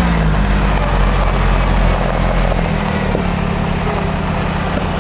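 Diesel engine of a Timberjack forestry forwarder running steadily. Its pitch drops slightly just after the start, then holds.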